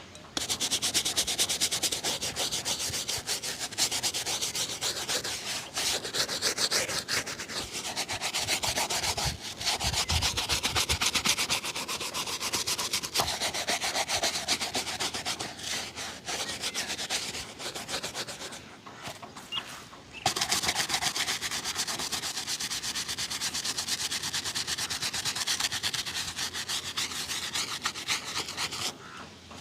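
Leather shoe being rubbed hard during a shoe shine, in rapid back-and-forth strokes, with a brief pause about two-thirds of the way through.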